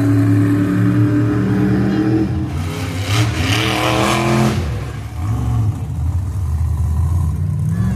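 Monster truck engine running loudly, revving up with a rising pitch about two and a half seconds in, then dropping back to a lower note.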